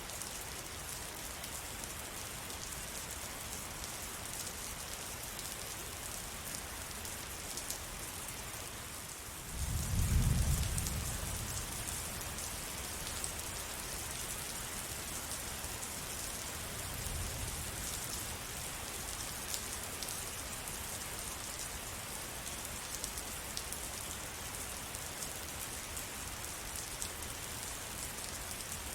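Steady rain falling, with a low rumble of thunder about a third of the way in that swells and fades over a couple of seconds, and a fainter rumble a few seconds later.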